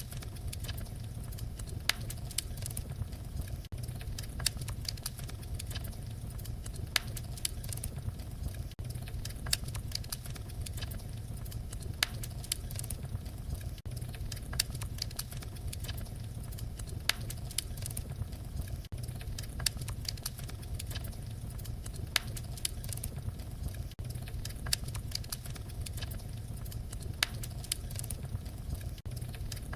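Wood fire crackling: a steady stream of small crackles with a louder sharp pop every two or three seconds, over a low steady rumble.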